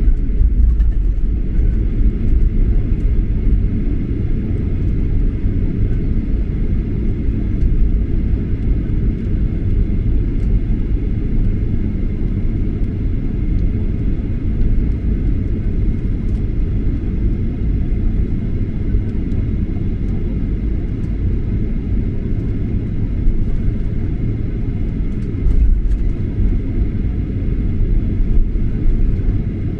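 Steady airliner cabin noise from a Boeing 737-800 in flight: a constant low rumble of engines and airflow with a faint steady whine above it.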